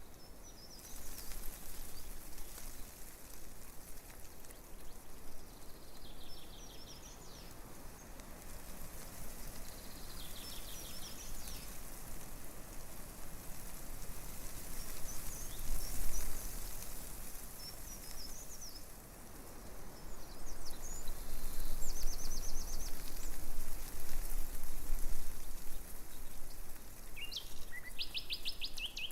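Tree leaves rustling in a breeze, a steady hiss that swells louder in the last third, with small songbirds chirping and giving short rapid trills every few seconds.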